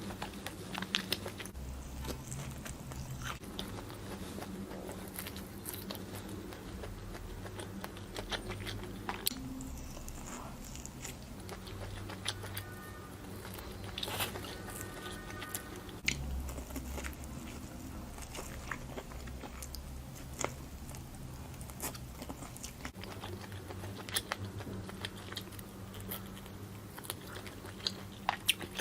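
Close-miked chewing and biting of grilled barbecue, with frequent short crunchy clicks and wet mouth sounds.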